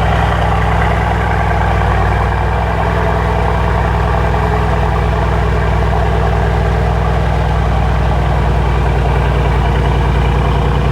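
Sports car engine idling steadily on its stock exhaust, with an even, unchanging note and no revs.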